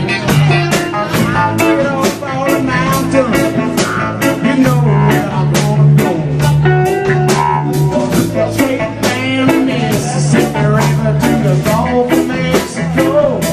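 Live band playing an upbeat tune led by guitar, over a steady bass line and a regular, quick beat.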